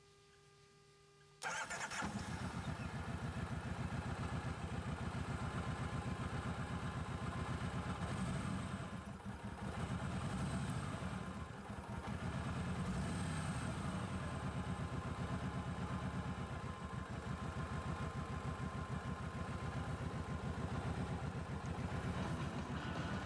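Kawasaki VN1700 Voyager's V-twin engine catching about a second and a half in and then idling with a steady, low, even pulse through the exhaust. Before it catches there is only a faint steady hum; the level dips briefly twice while it idles.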